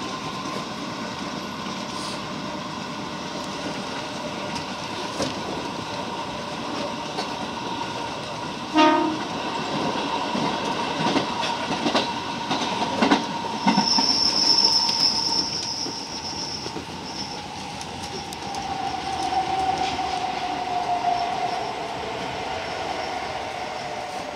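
JR 205 series electric train running through a tunnel, heard from inside the car: steady rumble of wheels on rail with motor whine. There is a short, loud horn blast about nine seconds in, then a high wheel squeal for about two seconds midway. Near the end the motor whine falls in pitch as the train slows into the station.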